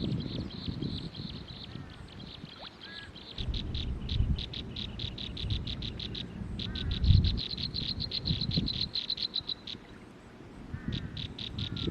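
Outdoor animal calls: high-pitched trills of rapid pulses, about seven a second, in bouts of a few seconds, with a few faint short chirps between. A low uneven rumble runs underneath.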